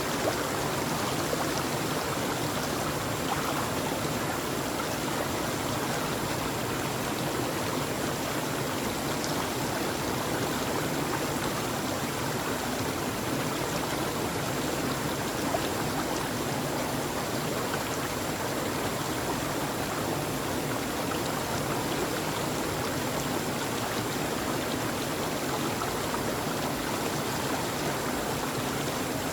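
Steady running water, an even rush with no breaks or changes.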